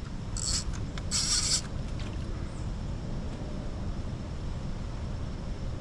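Steady low rumble of wind on the microphone, with two short hissing bursts close together about half a second and a second in.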